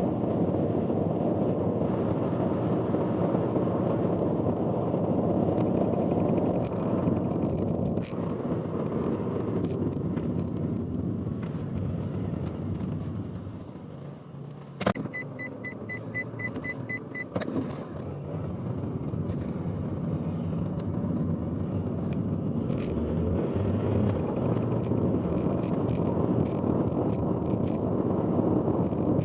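Steady road and engine noise heard from inside a car on the expressway. About halfway through it quiets, a click is followed by a run of rapid high beeps lasting a couple of seconds, and another click ends it.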